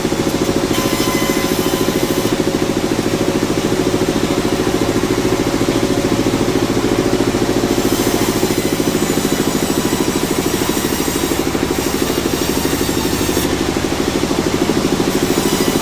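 Sawmill machinery running steadily: an even engine-like drone with a fast, regular pulse.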